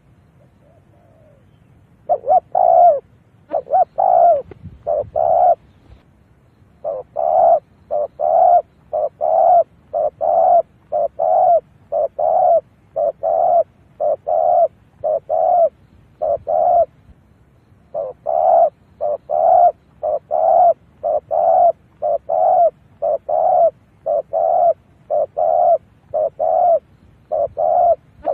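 Spotted dove cooing over and over, a long run of short coo notes nearly two a second with a brief pause past the middle. It is a decoy call used to lure wild doves to a trap.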